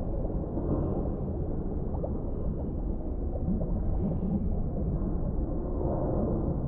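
Underwater ambience: a steady, muffled deep rumble with faint gurgling, lacking any high sounds.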